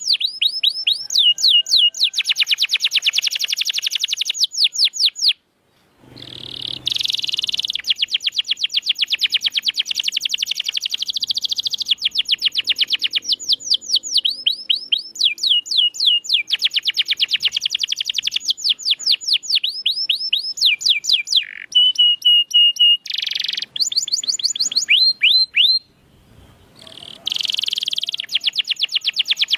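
Domestic canary singing long, rapid rolls and trills of quickly repeated notes, with changes of tempo and pitch between phrases. The song breaks off briefly twice, about five seconds in and near the end.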